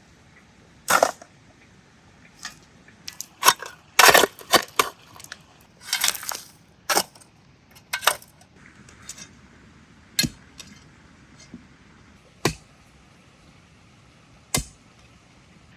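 A series of irregular knocks, clicks and clatters, bunched most thickly between about three and seven seconds in, with one longer scraping or rustling sound near six seconds.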